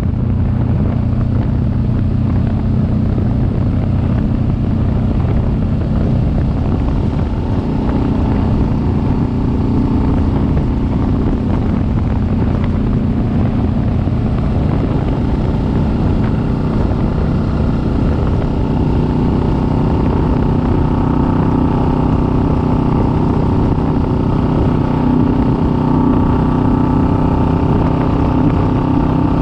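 Kawasaki Vulcan S 650's parallel-twin engine running steadily as the motorcycle rides along, its note holding an even pitch and growing slightly stronger in the second half.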